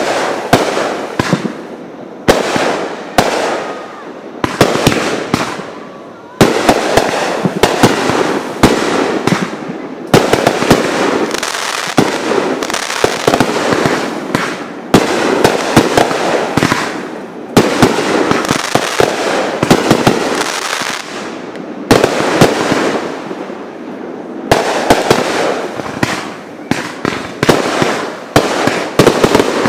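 Aerial fireworks launching and bursting overhead in a rapid, continuous volley: sharp bangs every second or two, with dense crackling between them.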